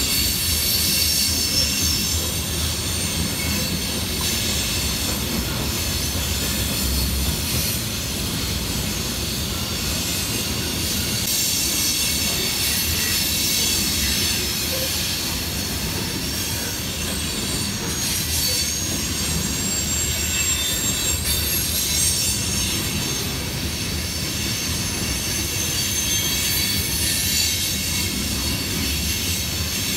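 Freight train cars rolling steadily past over a low rumble, with high-pitched wheel squeal that rises and fades several times.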